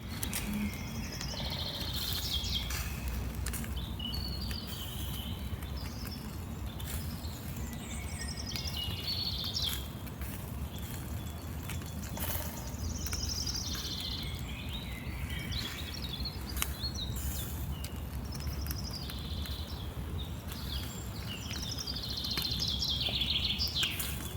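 Songbirds singing outdoors: repeated chirping and trilling phrases through the whole stretch, over a steady low background rumble.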